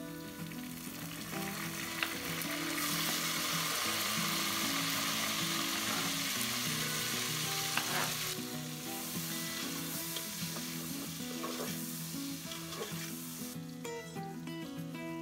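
Sliced onions frying in oil in a metal pot, sizzling as a metal spatula stirs them, with a few scraping clicks. The sizzle is loudest a few seconds in and softens after about eight seconds, once the chopped tomatoes are in. Background music plays underneath.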